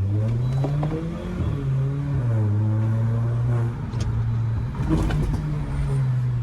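Stage 2 tuned Volkswagen Polo's turbocharged petrol engine accelerating hard under a full pull, its pitch climbing, dropping briefly, then climbing again. Two sharp clicks are heard near the end.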